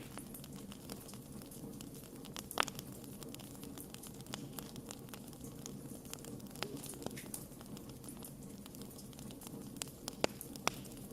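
Wood campfire crackling: irregular sharp snaps and pops over a steady low rumble of burning, with two louder pops about two and a half seconds in and near the end.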